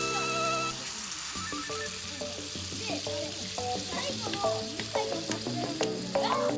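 Food sizzling steadily as it cooks, with children's voices faintly in the background. Background music fades out about a second in.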